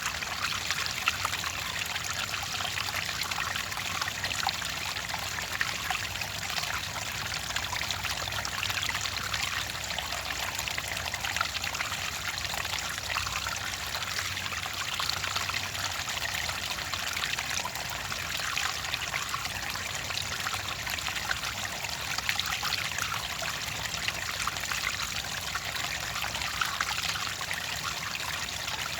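Clear water trickling and babbling in a steady stream, with a dense patter of small splashes and gurgles.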